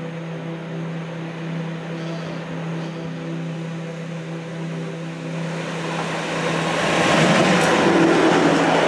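Bombardier TRAXX class 186 electric locomotive hauling a freight train of hopper wagons, approaching and passing close. The rolling rush of wheels on rail swells and becomes loud about seven seconds in as the locomotive goes by.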